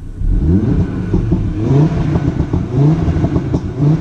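Audi TT RS's turbocharged five-cylinder engine revved repeatedly at a standstill through an EGO X aftermarket exhaust with its valves still closed, the pitch rising and falling about once a second, with pops and crackles as it comes off the throttle.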